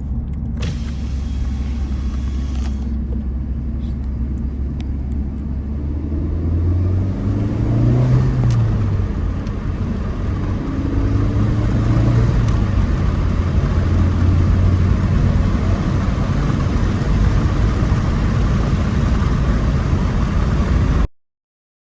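Interior noise of a Honda Civic Type R (FL5) driving: steady tyre and road rumble under the hum of its turbocharged 2.0-litre four-cylinder. The engine note rises and falls in pitch about seven seconds in and again about twelve seconds in as the car pulls, and the road noise grows louder after that. There is no rubbing or extra suspension noise on the new Swift lowering springs, which the owner says sound the same as stock.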